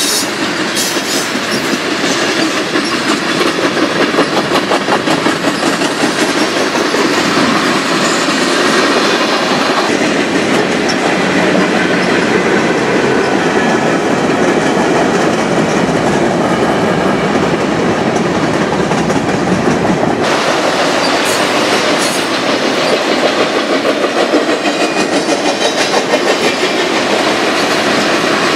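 Freight train of tank cars, boxcars and covered hoppers rolling past at close range: a steady rumble of steel wheels on rail with a rhythmic clatter over the rail joints. Sharp high clicks come near the start and again about three-quarters through.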